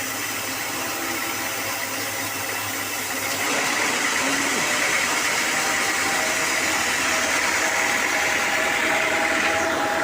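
Sawmill machinery running steadily, a mechanical hum with several steady tones. It grows louder and brighter about three and a half seconds in.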